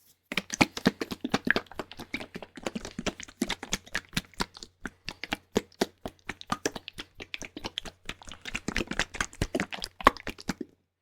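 Close-miked ASMR trigger sounds: rapid irregular crackling and tapping, many sharp clicks a second, over a faint low hum. They cut off suddenly near the end.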